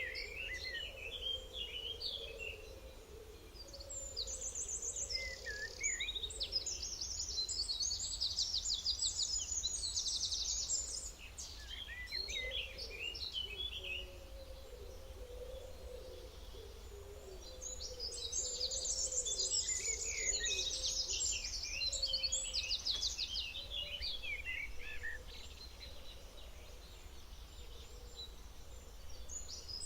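Several songbirds singing and chirping, with fast high trills, in two busy bouts separated by a quieter stretch, over a steady low background of ambient noise.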